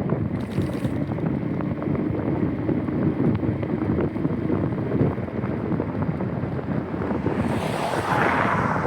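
Wind buffeting the microphone of a camera on a moving bicycle, with rumble and small rattles from the ride. A louder hiss swells near the end.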